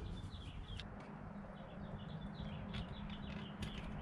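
Faint small birds chirping in the background over a steady low hum, with a few light clicks near the end.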